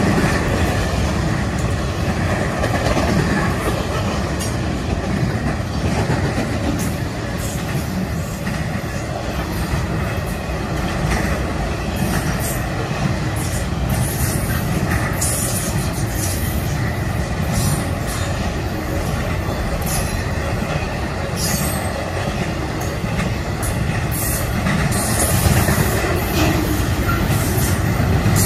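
Double-stack intermodal freight train's well cars rolling steadily past, with a continuous rumble of wheels on rail. Repeated sharp wheel clicks and some wheel squeal join in, more often in the second half.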